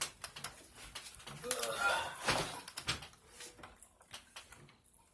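Scattered light clicks and knocks of things being handled, with a short voice-like sound about a second and a half in.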